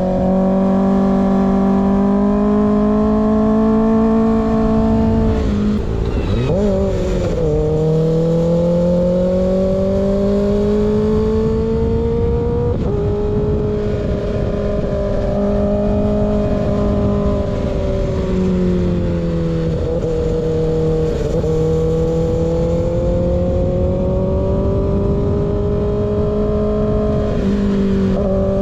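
Kawasaki ZX-6R's inline-four through an unbaffled M4 GP19 slip-on exhaust, running at steady road speed. Its pitch rises and falls slowly and steps down or up a few times, over a low wind rush.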